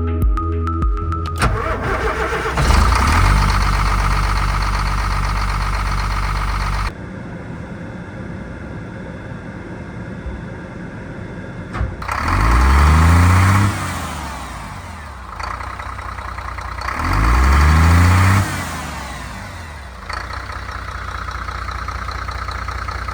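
Scania 4-series bus diesel engine starting, then idling. It is revved twice, its pitch rising and falling back each time, and settles to idle again.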